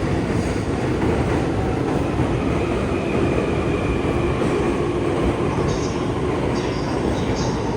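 Electric commuter train running on the rails, a steady rumble of wheels and running gear, with a few short high-pitched wheel squeals near the end.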